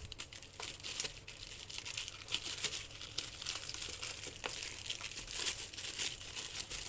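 Parcel packaging crinkling and rustling in quick, irregular crackles as it is handled and opened.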